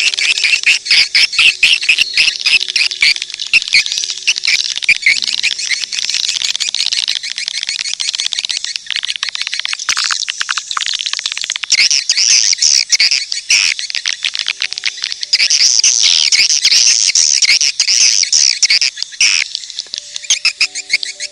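Swiftlet calling track: a dense, unbroken chorus of rapid high chirps and twitters from many swiftlets, with louder sweeping calls in the second half. It is the kind of lure sound played in swiftlet houses to draw the birds in to nest.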